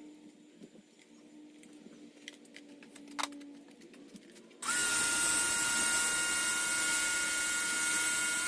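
Light handling clicks, then an electric motor-driven tool switches on suddenly just past halfway and runs steadily with a high whine over a loud hiss.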